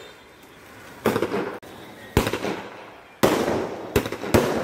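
Fireworks going off: five sharp bangs about a second apart, the last two close together, each trailing off in a crackling tail, over a steady faint hiss of sparks.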